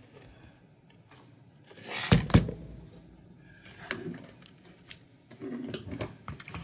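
Handling noises from the parts of a disassembled computer power supply: two sharp knocks about two seconds in, then lighter clicks and rubbing.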